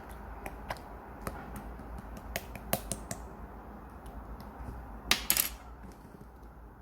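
Irregular light clicks and taps, a few a second, with a louder quick cluster of clicks about five seconds in.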